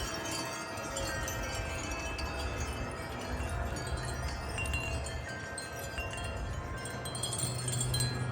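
Several metal wind chimes ringing in gusty wind, their tubes sounding many overlapping, lingering tones at different pitches, over a low rumble of wind.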